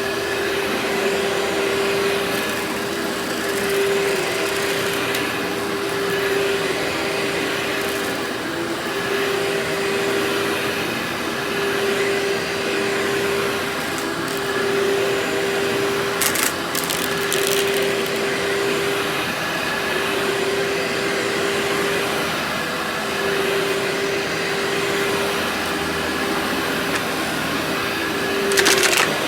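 Workhorse vacuum cleaner running steadily with a constant motor whine over the rush of suction air. Brief sharp crackles come about halfway through and again near the end, typical of grit being sucked up.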